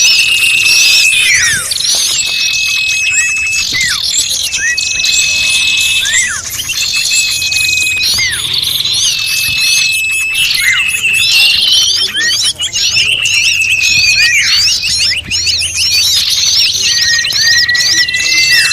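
A dense, noisy chorus of many small birds chirping and calling over one another, used as a bird-lure recording to draw small birds in. Repeated high whistles hold steady and then drop sharply, over a constant stream of quick high chips.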